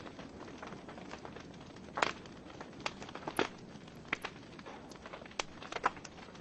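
Wood fire burning in a fireplace: a low steady hiss with irregular sharp crackles and pops from the burning logs, a few louder snaps among them.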